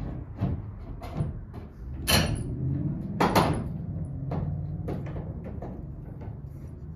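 Wooden hand-screw clamps being set and tightened on the van's visor: a series of irregular wooden knocks and clunks, over a low steady hum.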